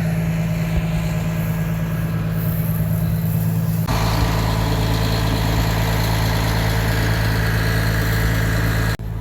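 Diesel cog-railway locomotive engine running steadily with a deep, even drone. Its sound shifts abruptly about four seconds in.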